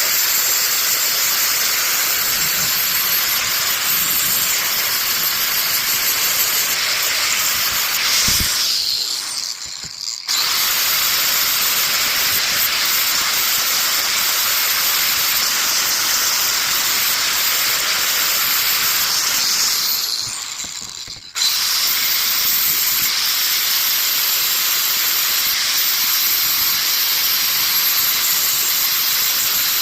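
Angle grinder with a flap disc grinding paint and surface rust off a steel axe head, a loud steady grinding hiss. Twice, about a third of the way in and again about two-thirds in, the grinder winds down with a falling whine and then starts up again at full speed.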